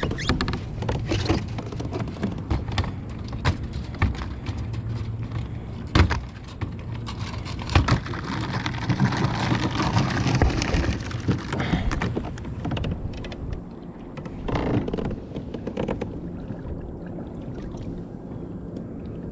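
Irregular knocks and clatter of gear being handled aboard a kayak, over a steady low motor hum, with a louder rushing noise for a few seconds in the middle.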